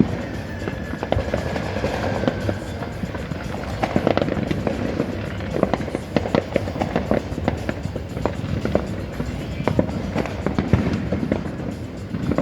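Fireworks going off: a steady run of sharp pops and crackles in quick succession, with a faint whistle falling slightly in pitch over the first few seconds.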